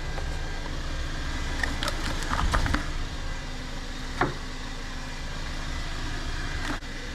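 A steady low mechanical hum, with a few light clicks and taps from handling near the middle and one sharper click a little past halfway.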